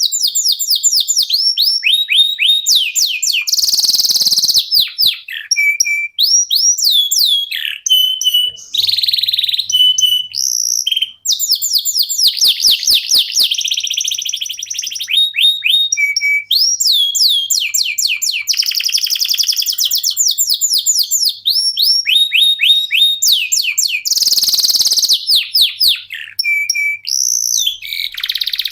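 Domestic canaries singing loudly. The song is made of fast trills, each a rapid run of the same sweeping note repeated many times, mixed with buzzy passages and short held notes, with brief gaps between phrases.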